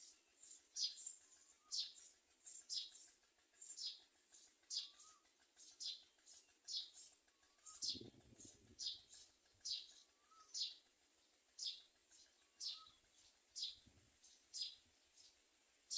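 Faint bird calls: a high, short, downward-sliding chirp repeated evenly about once a second, with a fainter, lower short note about every two seconds. A brief low bump about halfway through.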